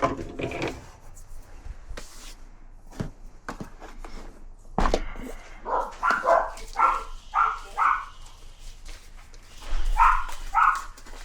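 A dog barking: a quick run of about five short barks, then two more a couple of seconds later, with scattered clicks and knocks around them.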